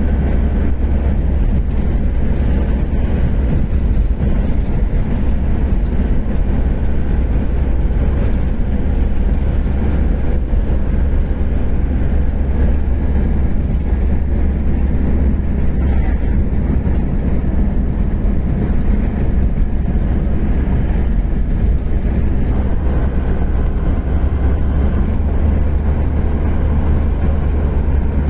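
Steady low rumble of a road vehicle driving on the highway, engine and tyre noise heard from inside.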